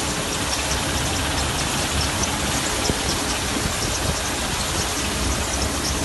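Sand washing machine running: a steady mechanical rumble under a churning, wet noise, with a constant patter of small high clicks.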